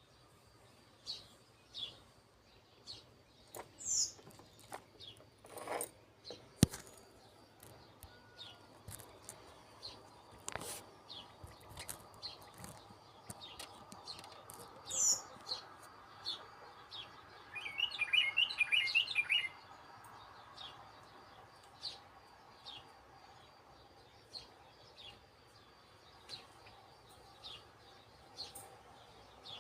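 Wild birds chirping, with short high calls coming about once a second and a burst of fast chattering calls about two-thirds of the way through. A single sharp click sounds about seven seconds in.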